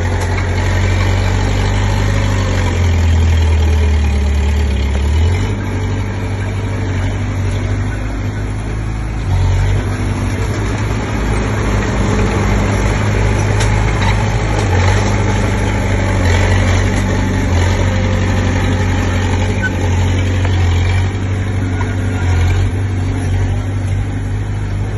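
Komatsu D20P bulldozer's diesel engine running steadily with a deep drone, its pitch and level shifting slightly a few times as it works.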